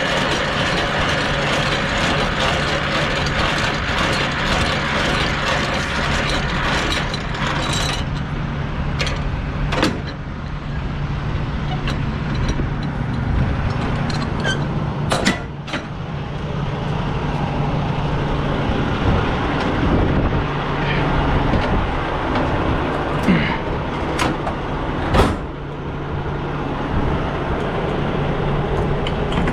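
Semi-truck diesel engine idling steadily, with a few short, sharp clunks and bursts over it, the loudest about halfway through and near the end, during a trailer tandem slide.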